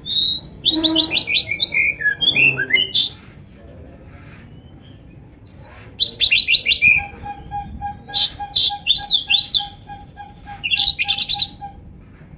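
Oriental magpie-robin (kacer) singing loud, rapid, varied phrases of whistles and trills in two bouts, with a pause of about three seconds between them. A steady run of short, lower pips, about three a second, sounds under the second bout.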